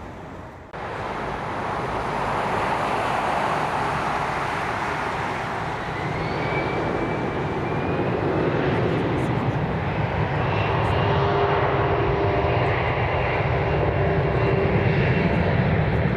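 Jet airliner engines, loud and steady, starting abruptly about a second in and slowly growing louder. A rising whine and then steady engine tones come through above the noise.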